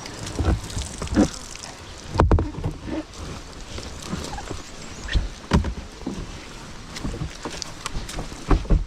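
Irregular thumps and knocks as a kayak and paddling gear are handled and carried, with the biggest bumps about two seconds in and near the end.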